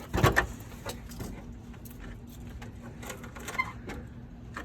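Someone climbing over a fence: scattered knocks, scuffs and rattles, with a louder clatter about a quarter second in, then lighter irregular clicks.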